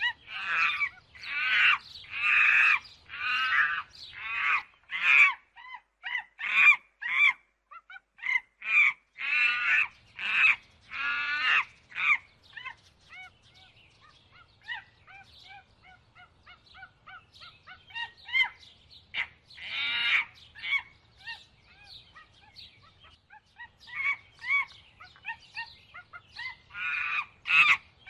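Birds calling: a dense run of short, repeated calls for the first dozen seconds, thinning to scattered small chirps, then another cluster of calls near the end.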